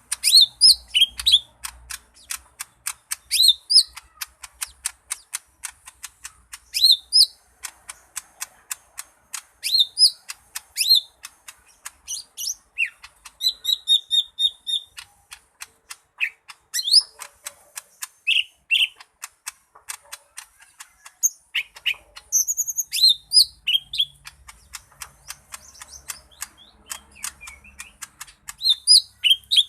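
Cucak ijo mini leafbird singing a fast, busy song: rapid ticking chips run almost continuously, mixed with high whistled notes that glide up and down and a few brief trills.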